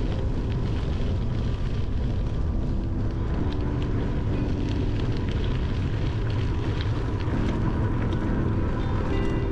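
Riding noise from a handlebar-mounted camera on a moving bicycle: steady wind rumble on the microphone mixed with tyre noise on the trail, plus a few light ticks and rattles.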